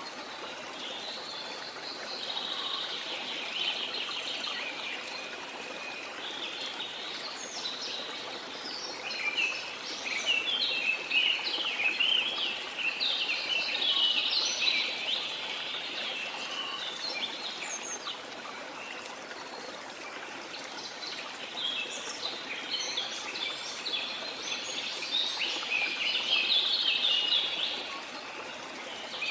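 Many birds chirping and calling in busy bouts, strongest about a third of the way in and again near the end, over a steady rush of a waterfall.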